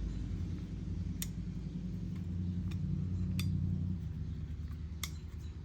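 Three sharp metallic clicks about a second and a half to two seconds apart, from small hand tools working on a carburetor, over a steady low hum.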